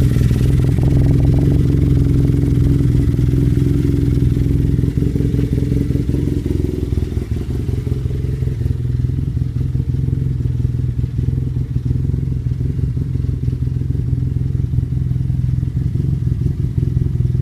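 2015 Arctic Cat Wildcat Sport side-by-side running steadily at a low, even engine speed through a Speedwerx stainless full exhaust, stepped headers into a performance muffler, with a deep, constant exhaust note. The sound gets slightly less bright about halfway through.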